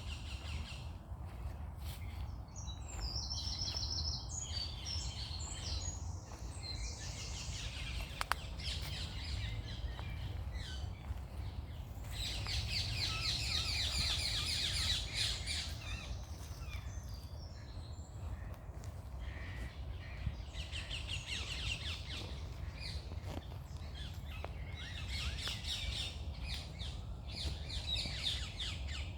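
Morning birdsong: birds singing in bouts of fast, high chirps and trills, loudest around the middle, over a steady low rumble.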